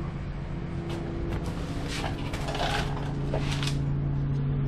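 A steady, low mechanical hum, with brief rustling and handling noises partway through.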